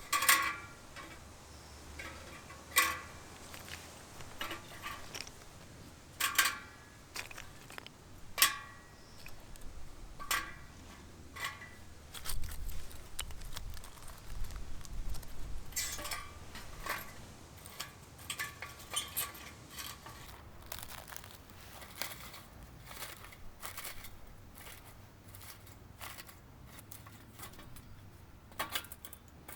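Wood fire burning in a Solo Stove Titan fire pit, crackling with sharp, irregular pops and snaps.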